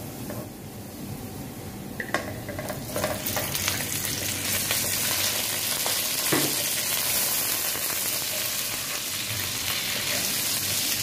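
Raw chicken pieces frying in hot oil with browned onions in a frying pan. The sizzle grows louder from about two to three seconds in, as the chicken goes in, and keeps going as a wooden spatula stirs the pan, with a few knocks.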